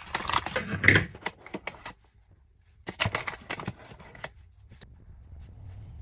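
Kitchen items being handled on a counter: two bouts of clattering and rustling, the first about two seconds long and the second about a second later, as ingredient packets and containers are moved and opened.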